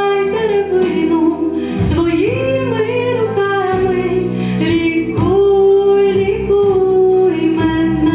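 A song sung by a female voice over instrumental accompaniment, with long held notes.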